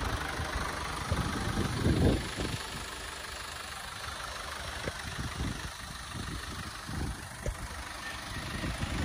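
A vehicle engine idling steadily, with a few brief low rumbles over it.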